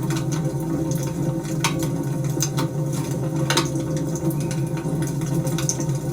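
Wood fire burning in a fireplace: a steady low rumble with scattered sharp crackles and pops, the loudest about one and a half and three and a half seconds in.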